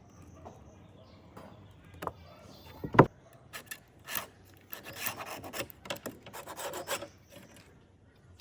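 Hand work on wood: a sharp knock about three seconds in, then a run of short rasping, scraping strokes across the wood.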